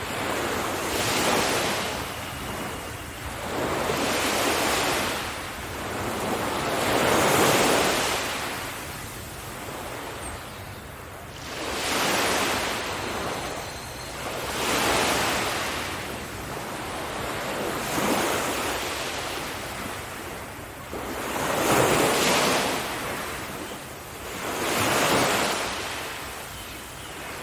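Surf breaking on a beach: waves rush in and wash back, each a swell of hiss that rises and fades, about one every three seconds.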